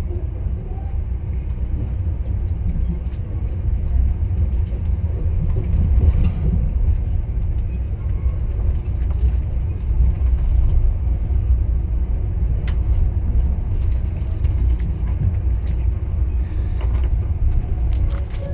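Moving passenger train heard from on board: a steady low rumble with scattered short clicks and knocks.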